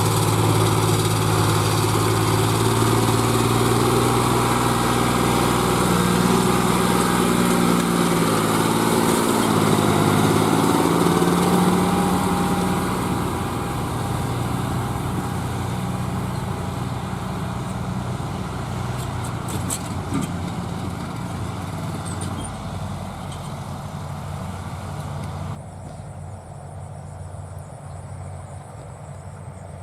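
John Deere 5104 tractor's three-cylinder diesel engine running under load while pulling a loaded trolley. Its pitch rises for a few seconds, then it gradually fades, and the sound turns abruptly duller near the end.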